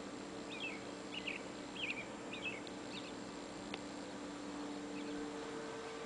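A small bird chirping outside: about six short, quick chirps in the first three seconds, then it falls silent. A faint steady hum runs underneath.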